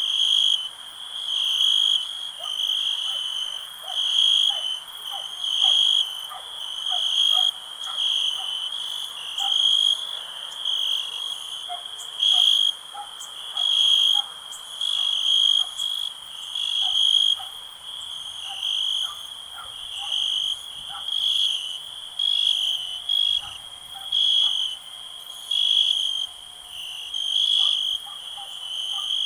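Crickets chirping in a steady, repeating rhythm of high-pitched pulses, about one a second. Faint short, lower calls are scattered underneath.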